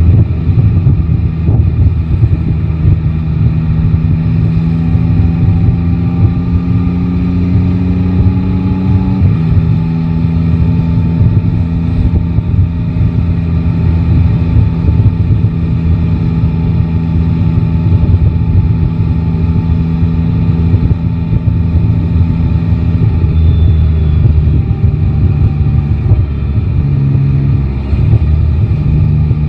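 Yamaha Tracer 9 GT's three-cylinder engine running at low revs while riding in city traffic. The revs climb slowly, then drop suddenly about nine seconds in, like a gear change or a closing throttle, and hold steady after that with a brief dip near the end.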